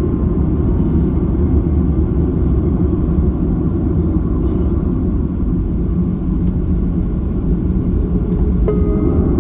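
Steady low rumble of cabin noise inside a Boeing 737 Next Generation airliner: the drone of the jet engines and airflow.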